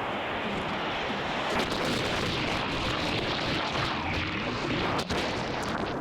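Heavy ocean surf breaking and churning, a loud, steady rush of water with wind buffeting the microphone.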